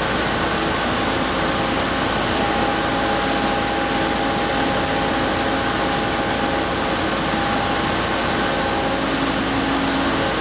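Machinery running steadily: a constant engine-like noise with a few faint held tones.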